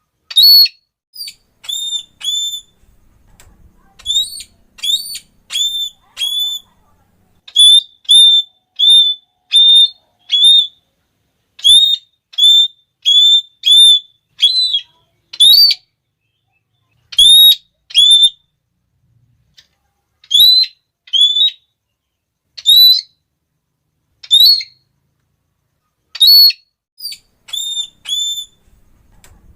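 Red-cheeked parrot calling: a loud series of short, shrill 'klee' notes with a quick hooked pitch, in irregular runs of two to five separated by brief pauses.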